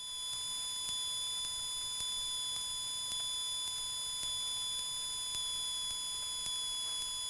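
Steady, unchanging high-pitched electronic whine made of several pure tones over faint hiss, from a cockpit intercom and radio audio feed with no one talking; the aircraft's engine is not heard.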